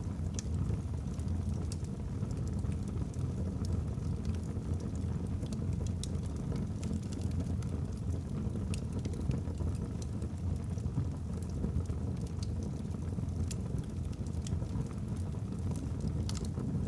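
Wood fire burning in a fireplace: a steady low rumble of flame with scattered sharp crackles from the logs.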